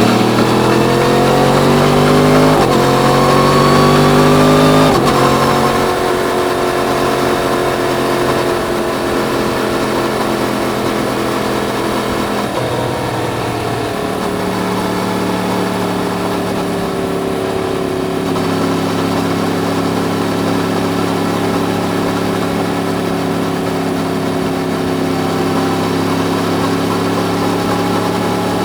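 Yamaha MT-10's crossplane inline-four accelerating hard through the gears: the engine note climbs and drops at two upshifts, about two and a half and five seconds in. It then settles into a steady cruise that rises slowly, stepping down to a lower note around twelve to fourteen seconds in.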